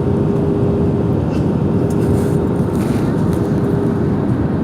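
Jet airliner cabin noise during descent: a steady, loud, deep rush of airflow and engine noise with a steady hum on top.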